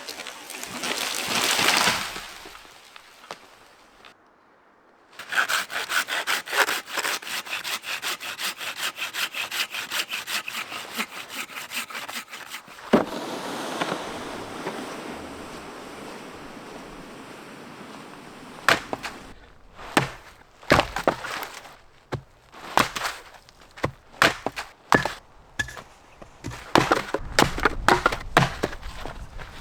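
Hand saw cutting through firewood in quick, even strokes, about three a second, followed later by a string of separate sharp knocks and cracks as the wood is worked.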